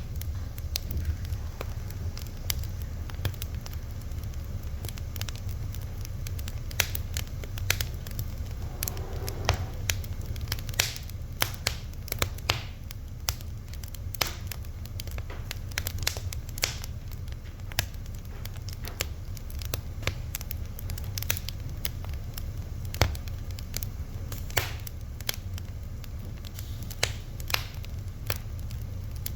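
Fire crackling: irregular sharp pops and snaps, some louder than others, over a steady low rumble.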